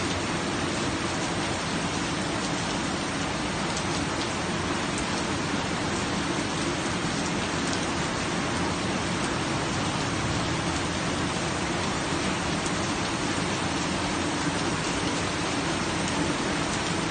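Steady rain falling and pattering on surfaces, with faint scattered drip ticks.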